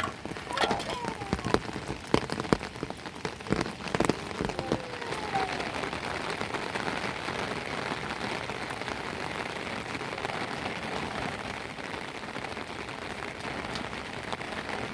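Heavy rain falling steadily, an even hiss. Scattered sharp knocks and clicks sound over it during the first five seconds or so.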